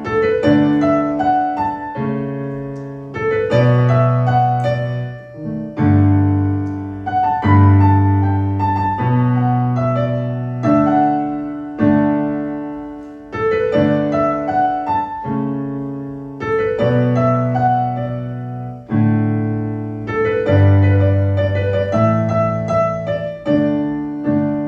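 Live piano accompaniment playing an instrumental interlude with no singing: a new chord is struck every couple of seconds and left to ring and fade, with rising broken-chord figures over a steady bass.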